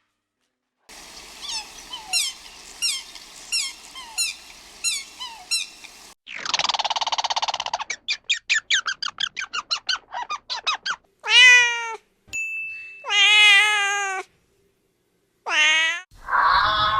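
A sequence of animal calls: a regular series of short high chirps, then a buzzing, rapidly pulsed stretch, then three separate cat meows in the last few seconds, the first the loudest and the second the longest.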